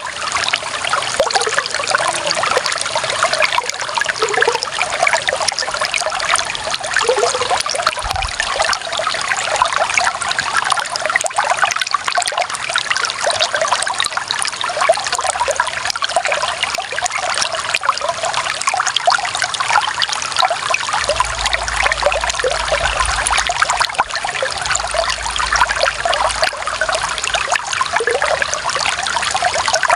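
Clear running water trickling and splashing steadily, a dense, even patter of small bubbling splashes.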